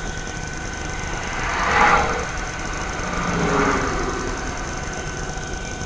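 Two vehicles passing on the road one after the other, each swelling and fading, the first about two seconds in and the second, dropping in pitch as it goes by, about a second and a half later, over a steady background hum.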